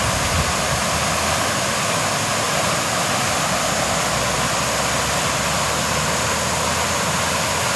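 Steady rushing of a waterfall: an even hiss of falling water that does not change.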